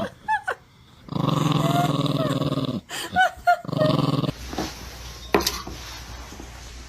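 A dog growling in long, drawn-out growls broken by short high yips. The growling stops about four seconds in, leaving only faint background noise and a couple of clicks.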